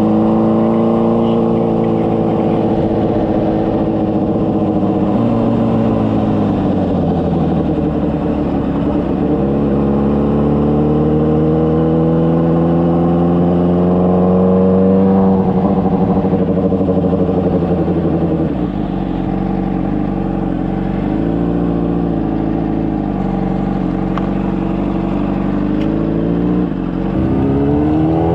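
Honda CBR600RR inline-four through a Toce exhaust under way: the engine note climbs as it accelerates and drops sharply at each gear change, around five seconds in and again about fifteen seconds in. It settles lower for a while, then revs up quickly near the end.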